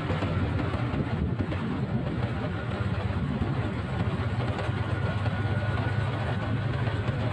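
Motorcycle engine running at a steady pitch, with a constant rush of wind and road noise.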